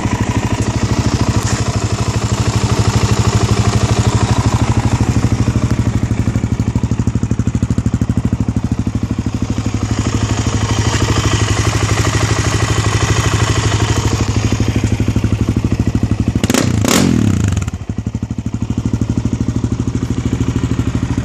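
2009 Suzuki LTZ400 quad's fuel-injected single-cylinder four-stroke engine idling steadily through a full Yoshimura exhaust, with an even beat of exhaust pulses. About three-quarters of the way through there are two sharp knocks, and the sound dips briefly before the idle carries on.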